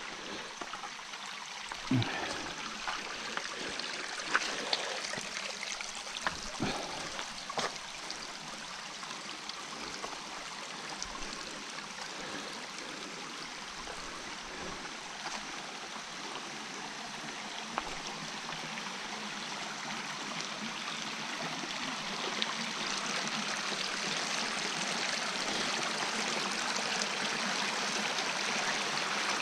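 A stream running steadily, growing louder over the last third. A few sharp knocks in the first eight seconds.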